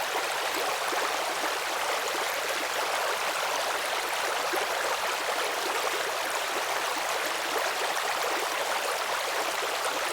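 Steady rushing of a flowing stream, an even wash of running water with no breaks.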